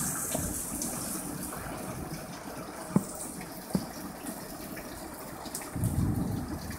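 Heavy rain pouring steadily in a thunderstorm, with two sharp taps of drops landing close by in the middle. A low rumble of thunder builds near the end.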